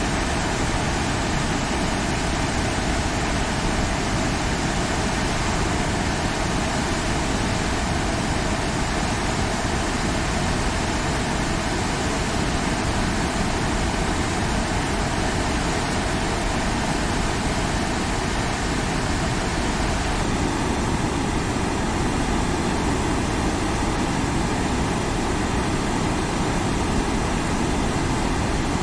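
Steady rushing of the Sagami River running high and fast after typhoon rains, turning brighter and hissier about two-thirds of the way through.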